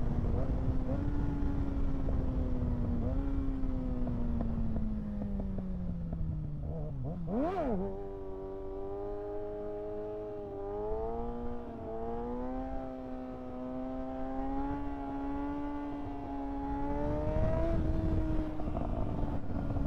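On-board sound of a Kawasaki ZX-6R 636 inline-four engine with wind noise. The revs sink for several seconds, then a quick rev blip comes about seven seconds in. After that the engine holds a wavering pitch for about ten seconds as the throttle is worked through a wheelie attempt, then eases off near the end as the wind noise grows.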